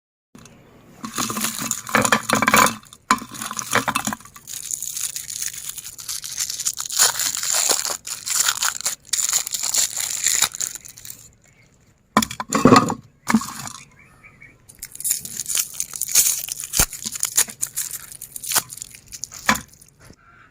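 Hard colourful candy being crushed in a meat grinder: crunching and crackling in long runs with a few short pauses and some louder sharp cracks.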